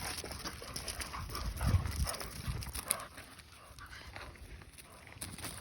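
American bully dogs playing and scuffling, with dog sounds, scattered clicks and rustling, and louder low thumps about two seconds in.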